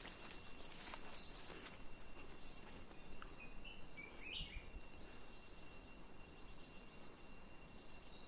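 Faint, steady high-pitched insect chorus, with a few short bird-like chirps about halfway through.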